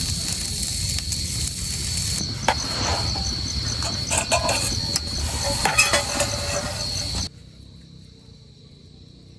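Insects chirping at night: a steady high trill with a quick pulsing chirp over it, against a low rumble and a few sharp knocks. The sound drops much quieter about seven seconds in, and the trill goes on faintly.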